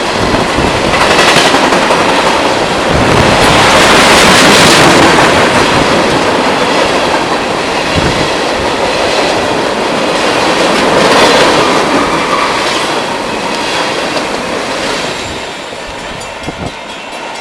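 Canadian Pacific freight train rolling past, its wheels clattering over the rail joints. It swells twice, then fades away near the end.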